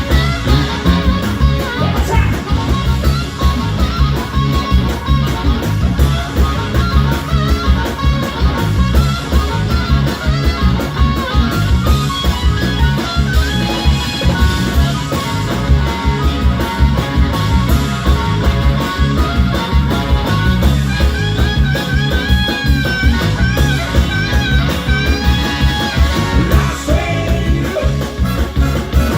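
Blues band playing live: electric guitar lead with bending notes over a steady bass and drum beat.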